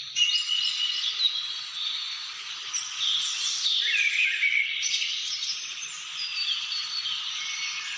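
A chorus of many birds calling and singing at once: dense, overlapping chirps and short whistled phrases.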